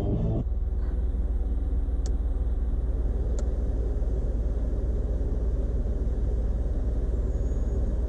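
1986 Mercedes-Benz 300E's straight-six engine idling, a steady, even low rumble.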